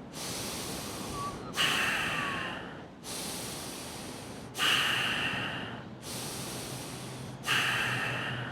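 Bhastrika (bellows breath) pranayama: forceful breathing in and out through the nose, a breath about every second and a half, alternating louder and softer, each louder breath starting sharply and then fading.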